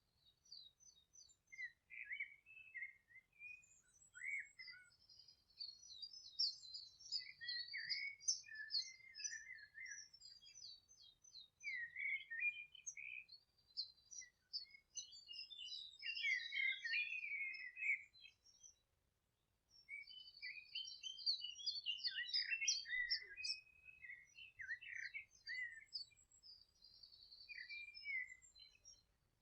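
Songbirds singing and chirping, several voices overlapping in quick trills and chirps, with a short break about two-thirds of the way through.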